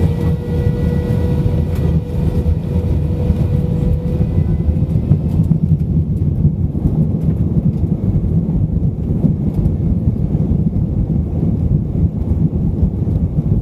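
Airbus A320-200 cabin noise: a steady low rumble with a faint engine whine that rises slightly, then fades out about five seconds in.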